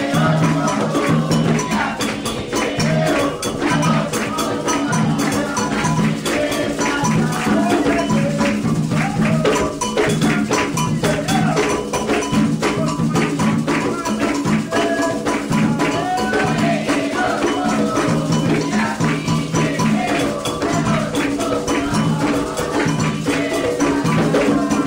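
Candomblé ritual music: atabaque hand drums beating steadily with a rattling shaker and voices singing.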